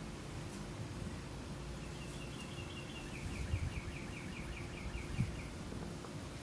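A songbird sings a quick run of evenly repeated, down-slurred notes, about five a second, starting about two seconds in and lasting some three seconds. Two dull low thumps, about three and a half and five seconds in, are the loudest moments, over a steady low hum.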